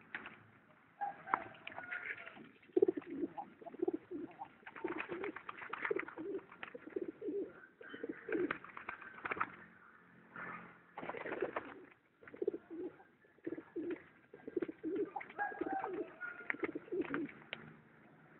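Tame domestic pigeons cooing, a run of short low coos one after another in repeated bouts, with scattered sharp clicks between them.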